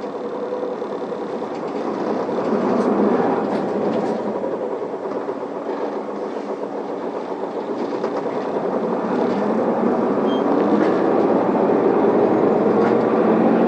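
Isuzu Elga city bus's diesel engine, heard from inside the cabin, pulling away from a stop. The engine note rises, eases off around four seconds in, then rises again as the bus gathers speed.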